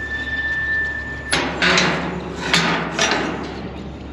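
A thin steady high tone, then a run of four loud knocks and clatter in under two seconds.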